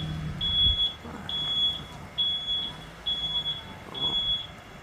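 Truck's reversing alarm beeping: a high, single-pitched beep repeating about once a second, six times, over a low engine hum.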